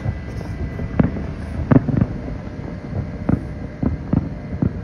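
Distant fireworks display: about seven sharp bangs at irregular intervals over a steady low rumble, the loudest two between one and two seconds in.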